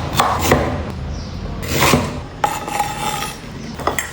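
Scraping and rubbing from preparing green-juice ingredients, with several sharp knocks and a short ringing tone about two and a half seconds in.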